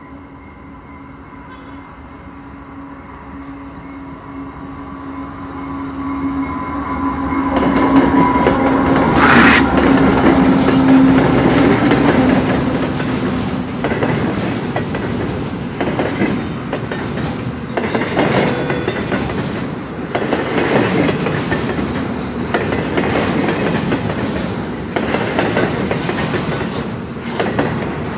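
Freight train passing close by. The diesel locomotive's steady engine drone grows louder as it approaches and is loudest as it goes by, about eight to twelve seconds in. Then the double-stacked container cars roll past with an uneven clatter of wheels over the rail joints.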